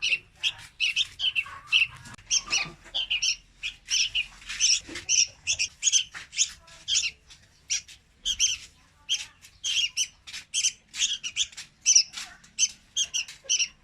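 Young red-whiskered bulbul calling: a quick, unbroken run of short, high chirps, several a second.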